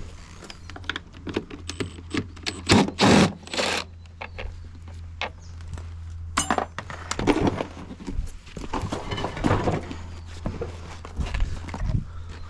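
Metal parts of a washing machine clanking, knocking and rattling as it is dismantled by hand, with a few louder thuds about three seconds in, over a steady low hum.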